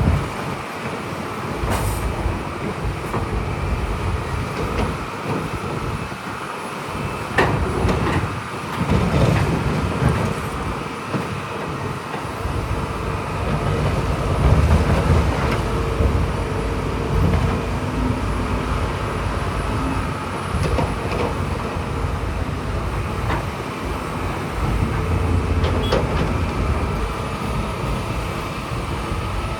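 Heavy crawler bulldozer working: its diesel engine runs steadily, swelling with load now and then, with a few sharp metallic knocks.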